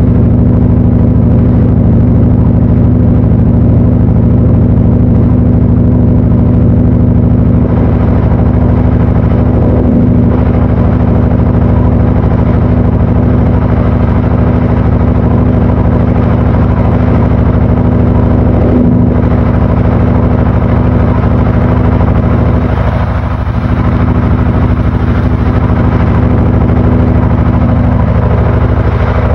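Panasonic NA-FA80H8 top-loading washing machine running with a steady, loud motor hum and whir, unchanging in pitch.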